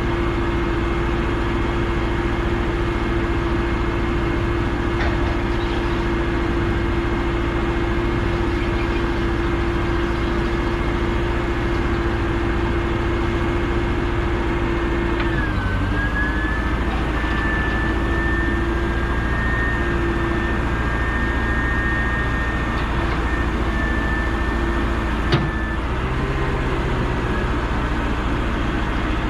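Steady road and engine noise inside the cab of a rollback tow truck on the move, with a steady whine that shifts in pitch about halfway through and a single click near the end.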